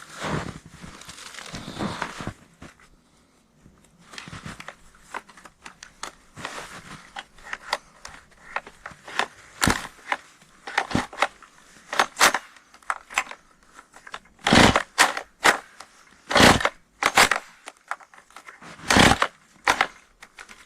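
Crunching in snow, then a series of short, sharp rasping pulls on a Husqvarna 135 chainsaw's recoil starter cord without the engine catching. It is a hard-starting two-stroke, with a suspected starter problem.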